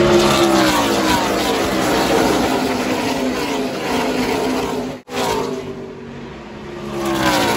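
NASCAR race vehicles' V8 engines passing at speed in a pack, the pitch of each dropping as it goes by. The sound cuts out abruptly about five seconds in, then rises again as more come past near the end.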